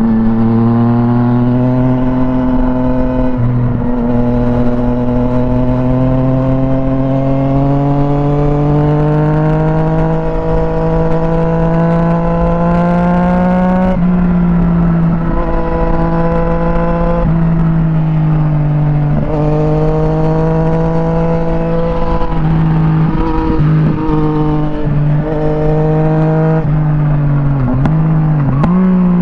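Yamaha MT-09 SP's inline three-cylinder engine through an Akrapovic exhaust, heard while riding. The engine note climbs slowly in long pulls and drops back several times, with a few quick dips near the end.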